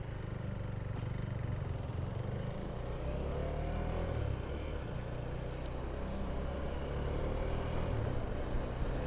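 KTM 390 Duke's single-cylinder engine running steadily under way, its pitch shifting slightly as road speed changes.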